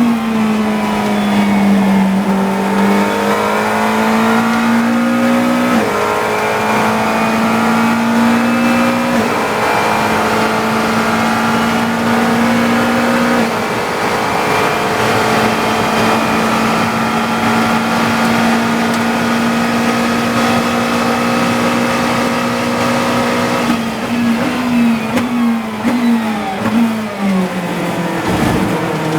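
GT3 race car engine heard from the cockpit, accelerating hard through three upshifts, then held flat out at steady high revs. Near the end it drops through several quick downshifts with throttle blips, as the car brakes for a corner.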